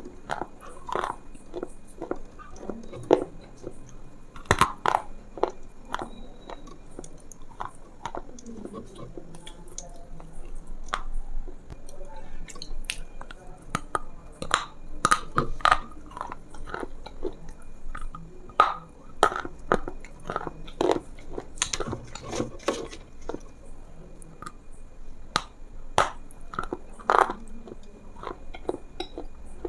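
A person biting into and chewing food, with irregular crunches and mouth clicks.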